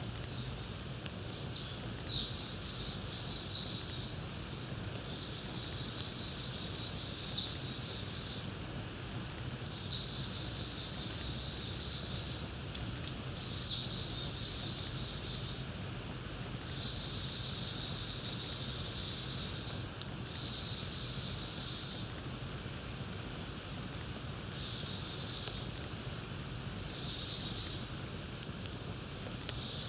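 Campfire crackling, a steady hiss with scattered small pops. Over it a bird calls: several short falling whistles in the first half, each running into a quick trill, with more trills later on.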